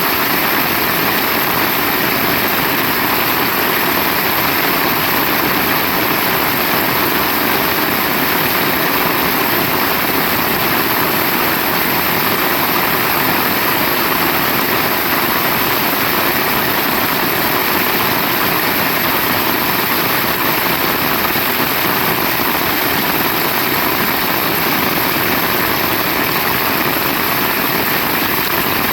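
Heavy rain falling steadily: a loud, dense, even hiss with no letup.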